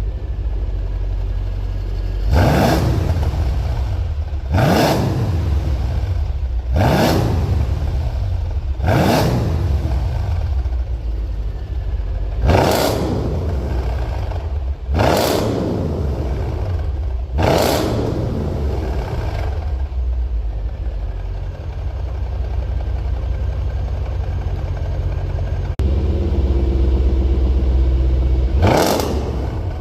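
Mercedes-Benz W221 S500 V8 with a custom valved aftermarket exhaust, free-revved in quick blips about every two seconds, each rising and falling sharply, about eight times. It then settles to a steady idle that gets louder and fuller about 26 seconds in, and one more blip comes near the end.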